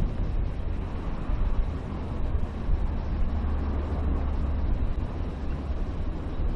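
Wind buffeting the microphone: a steady, gusty low rumble with a fainter rushing hiss above it.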